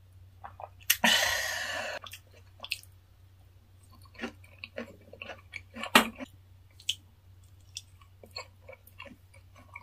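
Close-miked eating sounds: moist chewing, crunches and mouth clicks as corn salad and kimchi pancake are eaten with chopsticks. About a second in there is a loud, breathy exhale lasting about a second, just after a shot of soju.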